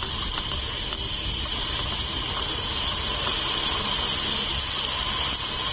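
Steady outdoor ambience at an eagle nest camera: a continuous high-pitched insect chorus, with a low rumble of wind on the microphone beneath it.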